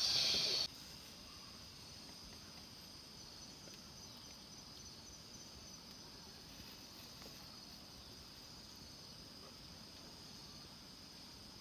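Steady, faint chorus of crickets and other insects, a constant high-pitched trill. A short, loud rushing noise opens it and cuts off suddenly under a second in.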